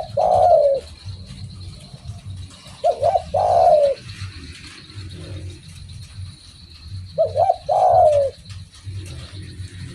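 Spotted dove cooing: a phrase of two quick notes and a longer falling coo, given three times about four seconds apart, over a steady low rumble.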